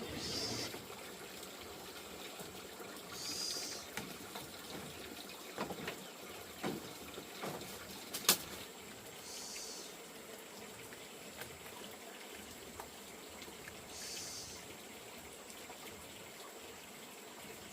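Water trickling steadily, with a short high chirp repeating every few seconds and a few sharp clicks, the loudest about eight seconds in.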